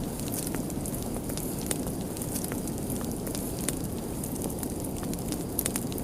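Wood fire burning, with a steady low rumble and hiss under frequent sharp, irregular crackles and pops.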